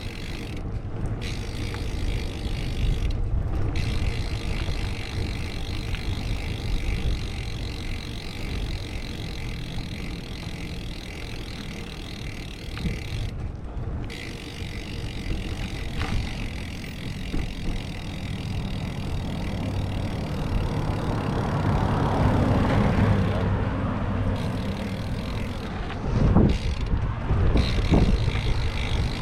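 Wind and rolling noise rumbling on a bicycle-mounted action-camera microphone during a road ride. About two-thirds through, a passing motor vehicle swells up and fades. Near the end come a few low thumps.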